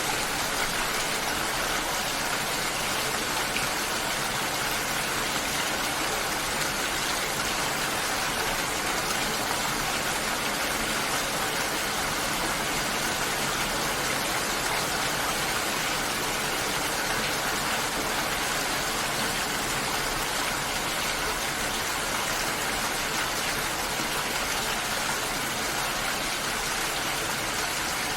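Steady water ambience: an even, unbroken hiss of falling or running water, with no separate drops, splashes or other events standing out.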